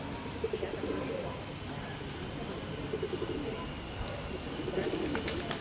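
Pigeons cooing in low, pulsing runs that come and go several times, with a few sharp clicks near the end.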